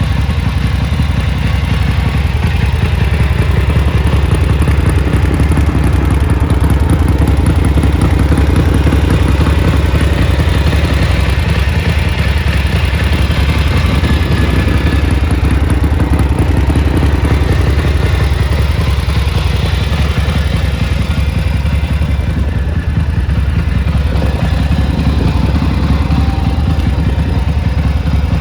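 1974 750SS motorcycle engine running steadily on test, without clear revving.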